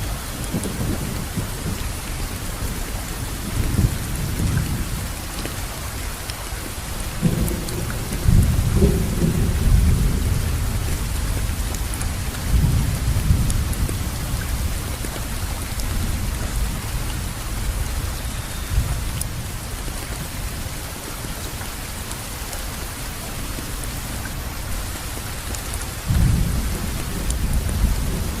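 Steady rain falling, with low thunder rolling in several swells: around 4 s, from about 7 to 11 s, around 13 s and again near the end.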